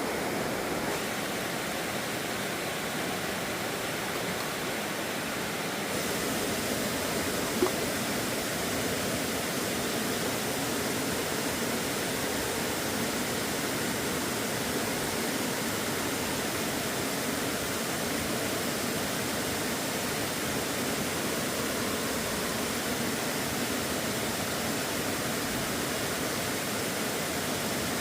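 Steady rush of flowing stream water, an even unbroken noise, with one sharp click about eight seconds in.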